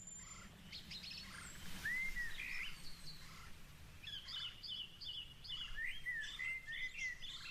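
Several small birds chirping and singing, with quick repeated notes and short whistled glides, over a steady low outdoor rumble.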